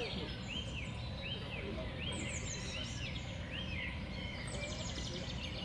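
Small songbirds calling over a steady low rumble. A run of arched whistled notes repeats about twice a second through the first half, mixed with thin high falling calls, and a quick chirping trill comes near the end.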